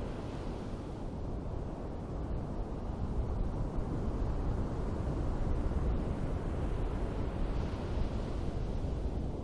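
Ocean surf on a beach: a steady low rumble of waves, with wind buffeting the microphone. It grows a little louder partway through, with a brief brighter wash near the end.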